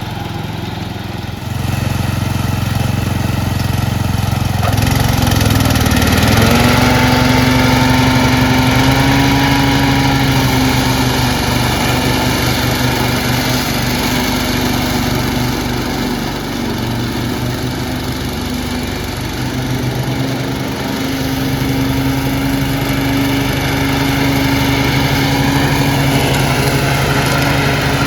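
Small lawn tractor engine running. It picks up about a second and a half in and revs up a few seconds later, holds steady, eases off for a few seconds past the middle, then picks up again.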